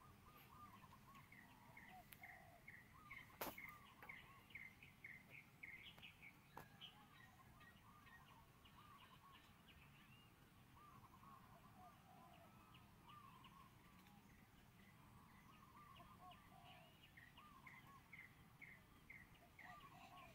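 Faint birds calling in the background: series of short, repeated chirps, with one sharp click about three and a half seconds in.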